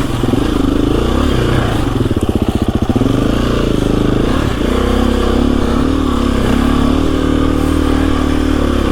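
KTM EXC-F 350's single-cylinder four-stroke engine running, its pitch rising and falling with the throttle. About two seconds in it drops to a low, pulsing chug for about a second, then picks up and holds a steadier pitch.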